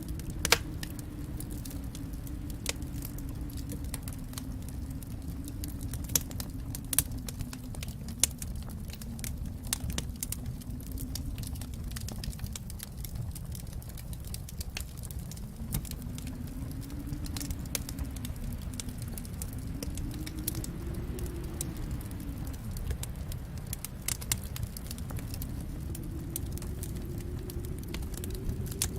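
Wood fire crackling in a fireplace: a steady low rumble of flames with scattered sharp pops and snaps, a few louder pops in the first third.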